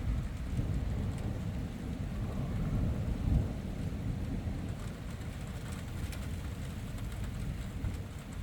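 Thunder rumbling, with a louder swell about three seconds in, over steady rain.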